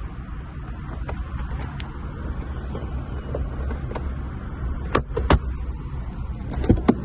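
BMW 520i engine running with a steady low rumble, with two sharp clicks about five seconds in and two more near the end.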